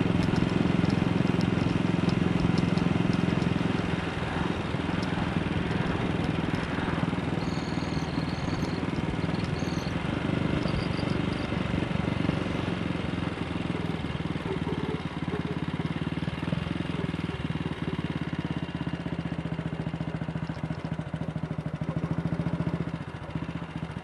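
AJS Model 8 motorcycle's single-cylinder engine running steadily on the road, easing off a little about four seconds in.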